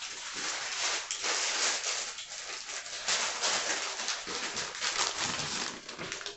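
Continuous crisp rustling and crackling of shredded lettuce being handled and tossed in a bowl.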